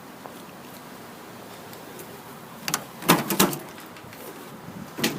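A latch clicking, then a short cluster of loud rattling knocks about three seconds in and one more knock near the end: the bed of a Ford F-150 pickup being opened up.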